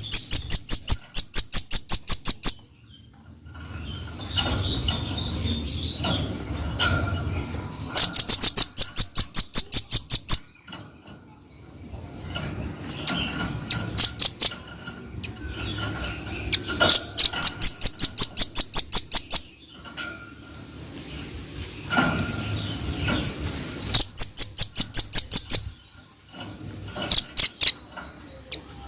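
Velvet-fronted nuthatch (red-billed nuthatch) calling in loud, fast runs of sharp, high, evenly spaced notes, about six or seven a second. Five runs come through, each lasting one and a half to two and a half seconds, with fainter chirps between them.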